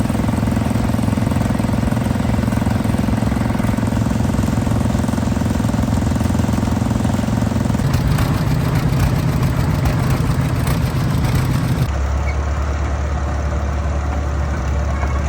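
Engines running steadily at idle, with the engine sound changing abruptly about eight seconds in and again about twelve seconds in.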